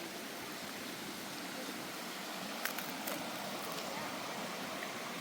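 Steady rushing noise outdoors, with two or three sharp clicks a little past the middle.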